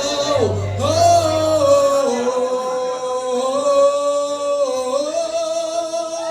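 A man singing a long, drawn-out held note over a karaoke backing track. The pitch shifts slightly a few times.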